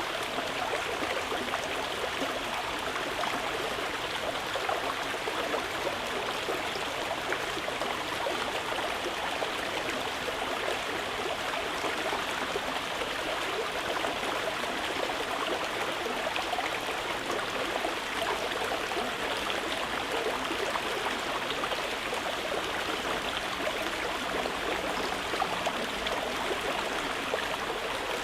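Water flowing in a stream, running steadily without a break.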